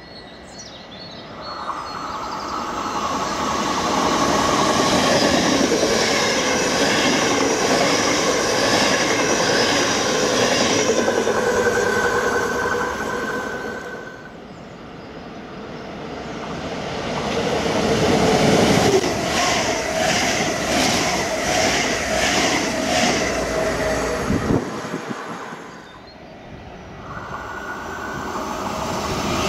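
Electric passenger trains passing a station platform, one pass after another. Each swells into a loud rush of wheel and rail noise and then falls away. The second pass has a rhythmic clatter of wheels over rail joints, about two clacks a second, and near the end an NS double-deck Intercity train comes in, rising in loudness.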